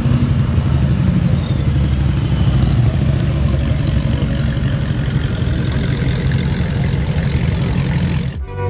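Car engine idling, a steady low, uneven exhaust note that cuts off abruptly near the end.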